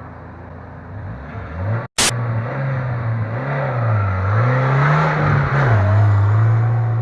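A car engine revving hard under load, its pitch rising and falling several times as the throttle is worked. The sound builds from about a second in, and just before two seconds it cuts out for an instant with a click.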